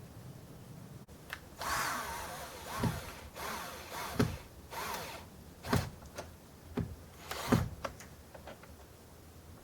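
Carpentry on a wooden door: several short bursts of tool noise, each a second or less, with sharp knocks in between.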